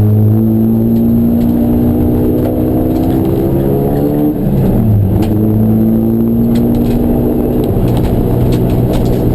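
Race car engine under acceleration, its pitch climbing slowly through a gear, then dropping sharply about four seconds in at an upshift before pulling on again.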